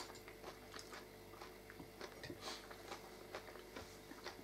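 Faint chewing and mouth sounds of people eating mashed potatoes and fish cutlets, with scattered light clicks of forks against plates, over a steady low hum.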